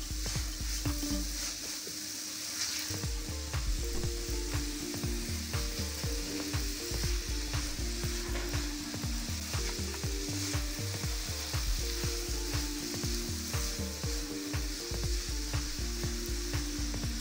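Vermicelli frying and sizzling in butter in a nonstick pan, with sugar just added, stirred and scraped with a silicone spatula. Light background music with a steady beat runs underneath.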